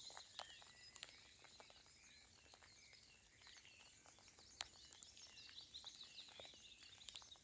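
Faint, distant birdsong of small chirps, over a light patter of soft rain, with one sharper drip-like tick a little past halfway.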